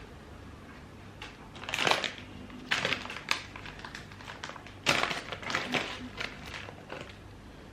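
Irregular clusters of short clicks, knocks and scrapes from objects being handled, loudest about two seconds in and again about five seconds in.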